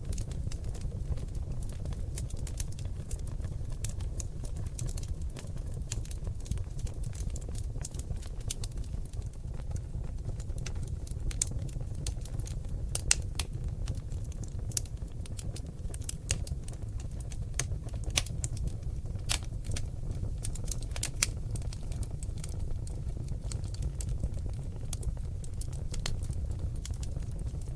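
Seasoned oak logs burning in a fireplace: a steady low rumble of flame with irregular sharp crackles and pops, the loudest pops coming about halfway in.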